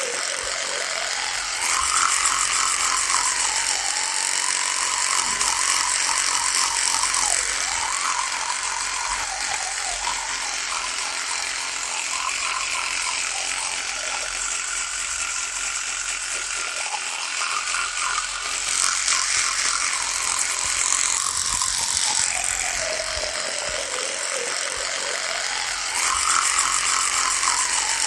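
Electric toothbrush running continuously, a dense mechanical buzz whose pitch wavers up and down and that grows louder now and then as the brush head presses and moves.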